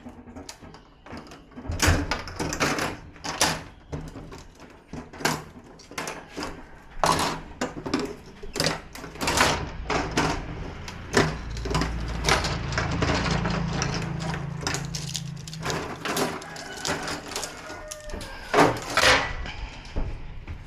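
Clicks, knocks and clatter of parts being handled, as old LED backlight strips are lifted out of a TV. A low steady hum joins in from about halfway through for a few seconds.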